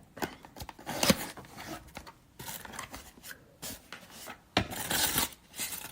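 Packaging and set contents being handled: irregular rustling, scraping and light knocks, with a longer rustle about four and a half seconds in.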